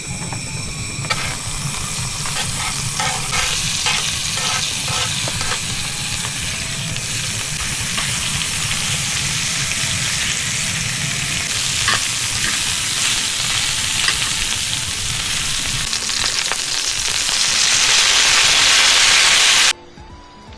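Food sizzling and frying in a hot pan while being stirred, with a few light clicks a few seconds in. The sizzle swells louder and hissier near the end, then cuts off suddenly.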